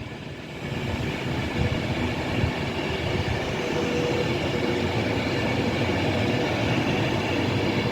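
Avanti West Coast Class 390 Pendolino electric train pulling out of the station: a steady rumble of wheels on rail, growing louder over the first second and then holding level, with faint steady tones above it.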